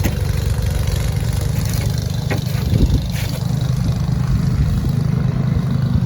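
An engine running steadily at a constant low drone, with a couple of faint knocks partway through.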